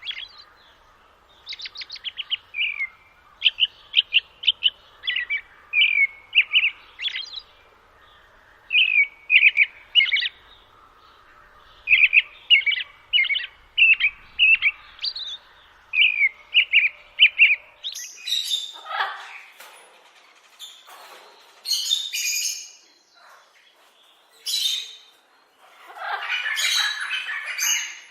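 A bird chirping in quick runs of short, high notes, then from a little past halfway harsher, noisier squawking calls.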